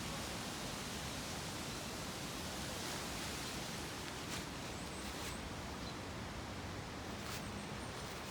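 Steady rushing outdoor background noise, with a few faint rustles.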